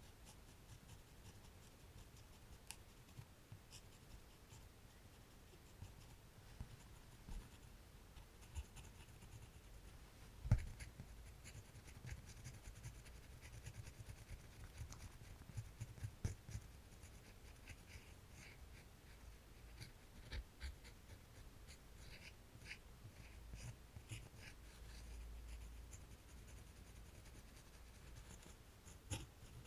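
Faint, quiet drawing strokes on paper, scratchy and uneven, with scattered light taps and one louder knock about a third of the way in.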